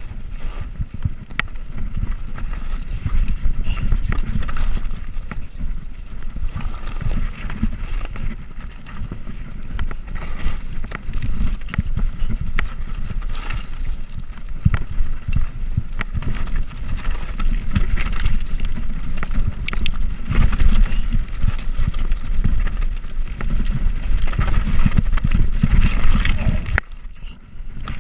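Wind buffeting the microphone over the rumble and rattle of a bicycle riding along the road, with many small clicks and knocks. It drops away briefly near the end.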